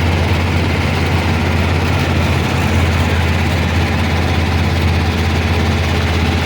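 An engine running steadily with a deep, unchanging low hum.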